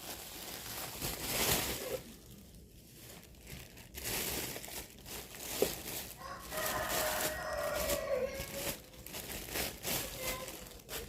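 Plastic packaging crinkling and rustling as it is handled. About six and a half seconds in, a drawn-out pitched call lasting about two seconds sounds in the background.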